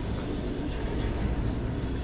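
Norfolk Southern double-stack intermodal train rolling past, a steady low rumble of its well cars' wheels on the rails.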